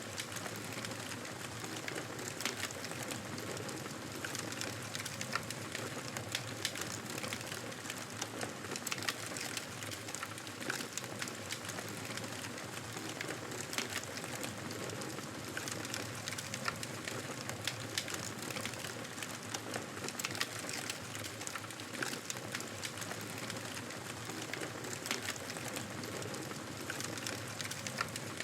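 Wood fire crackling: a steady hiss with frequent small, sharp pops and snaps at irregular moments.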